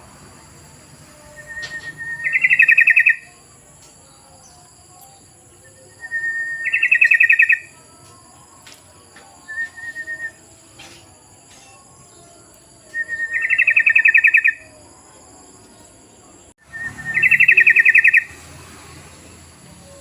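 Yellow-vented bulbul (trucukan) song played as a lure call: a bubbling phrase repeated four times, each starting with a short note and running into a rapid chattering trill, with a brief call in between.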